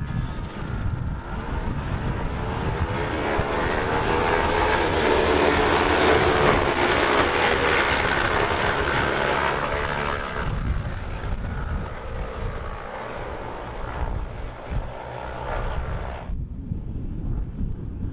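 Honda CB500 parallel-twin race bikes passing at racing speed, their engines swelling to a peak about six seconds in and then fading away, the sound stopping abruptly near the end. Wind buffets the microphone underneath.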